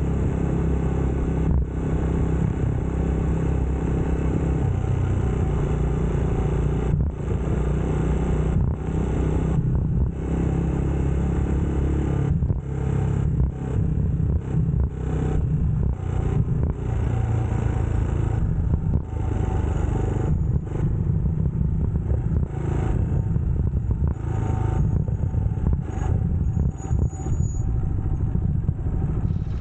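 UM Scrambler X motorcycle engine running on the move, its note rising and falling, with many brief dips in level throughout.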